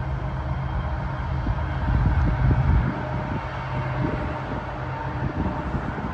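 Diesel locomotive on a coal train rumbling steadily as it pulls away down the track. The low rumble swells briefly about two to three seconds in, with some wind buffeting on the microphone.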